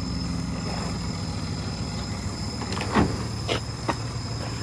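A car's boot being opened: a knock and a couple of sharp clicks about three seconds in, over a steady low hum.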